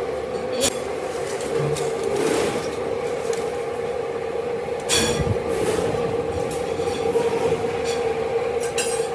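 Machine tool running steadily with a constant hum while machining a compressor crankshaft, with a few sharp metallic knocks, the strongest about five seconds in.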